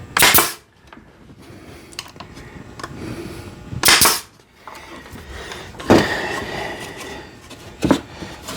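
Nail gun firing nails into cedar roof boards: four sharp shots roughly two seconds apart.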